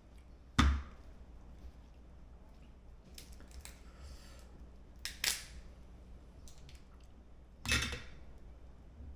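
Steamed blue crab shells being cracked and broken apart by hand. The loudest, sharpest crack comes about half a second in, two more follow in quick succession a little after five seconds and another near the end, with faint clicks in between.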